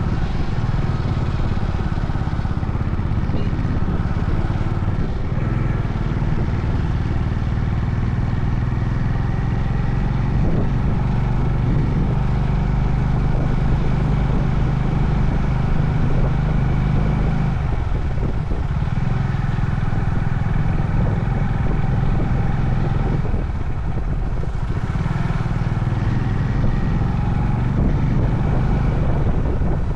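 Honda CB350 Highness motorcycle's air-cooled single-cylinder engine running under way, with road noise. The engine note holds steady for stretches and shifts in pitch a few times as the throttle changes, easing briefly about two-thirds of the way through.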